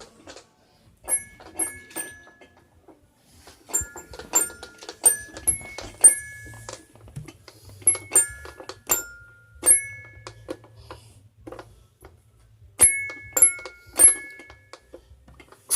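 High bell-like chimes struck again and again on about three notes, in quick irregular runs with pauses between them. A louder knock comes right at the end.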